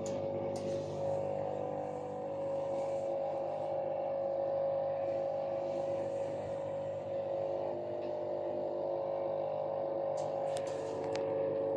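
Atlant 50S102 washing machine running, a steady motor whine with a hum beneath it that holds level, with a few light clicks or taps near the end.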